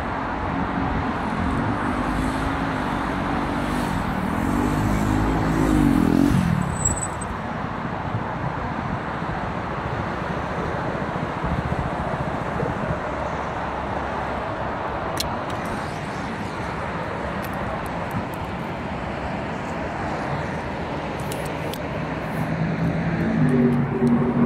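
KTM 390 Duke's single-cylinder engine revving up and down in short bursts as the bike weaves through a cone course. It is loudest about six seconds in, then falls away to a steady hiss of distant traffic. A low steady hum returns near the end.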